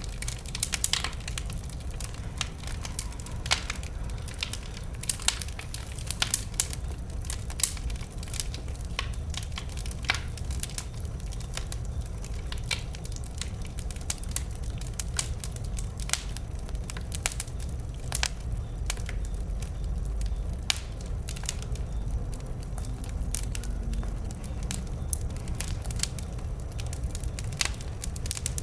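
Wood bonfire burning and crackling, with frequent irregular sharp pops and snaps over a steady low rumble.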